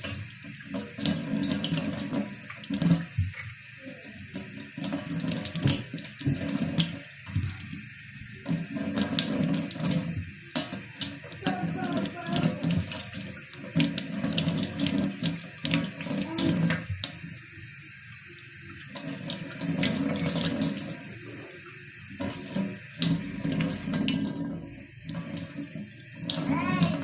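Tap water running into a sink, with scattered short clinks and knocks throughout.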